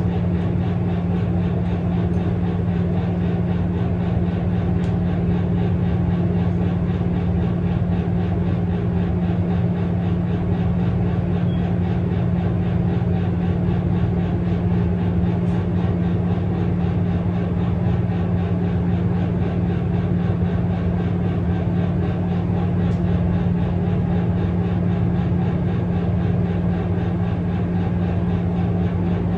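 A steady low mechanical hum, unchanging throughout, like a running motor or engine.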